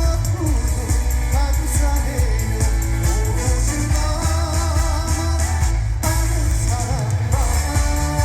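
Loud live pop song over a concert sound system: a singing voice carrying the melody over a band backing with a heavy, steady bass beat.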